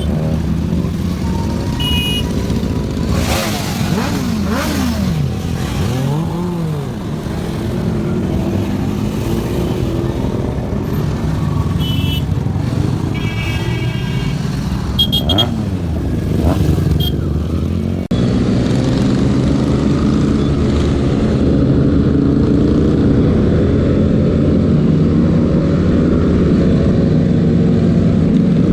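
Several superbike engines running and revving as the group rides off, their pitch rising and falling, with a few short high beeps. About two-thirds of the way through the sound cuts to a steadier engine drone.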